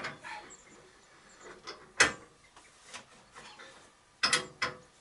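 Sharp knocks and clicks from metal lathe parts being handled: one loud knock about two seconds in and two more close together near the end, with quieter handling sounds between.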